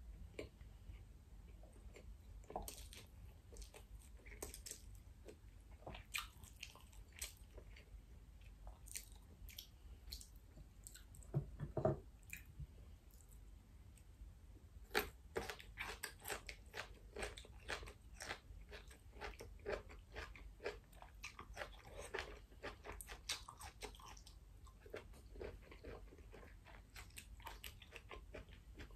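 Close-miked chewing of food: soft wet mouth sounds and crackles, with crisp crunching bites on a stir-fried asparagus spear, thick in the second half, and one louder bite near the middle.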